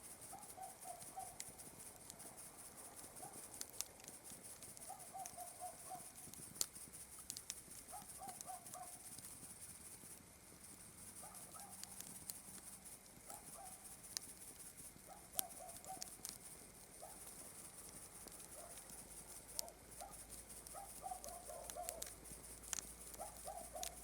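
Campfire crackling faintly with scattered sharp pops, over a steady high chirring of night insects such as crickets. A short trilled call from a night animal repeats every second or two.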